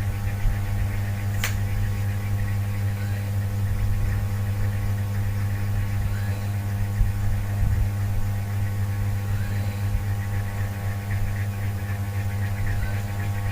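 A steady low hum with a tone an octave above it and several fainter steady tones higher up, broken by a single sharp click about a second and a half in.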